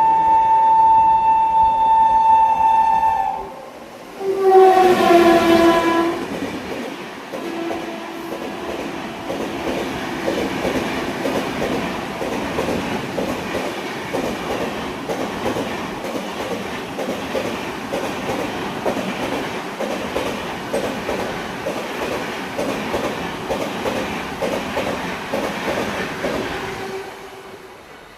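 A locomotive horn sounds a long blast, and a second, lower-pitched horn answers briefly about four seconds in: an acknowledgement exchange of horns between trains. Then a train passes with its wheels clattering rhythmically over the rail joints for about twenty seconds before fading.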